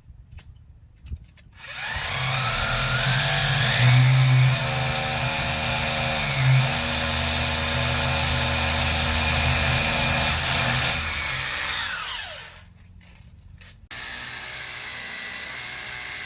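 Handheld electric power tool motor spinning up, running for about ten seconds and winding down, then a second, shorter and quieter run near the end.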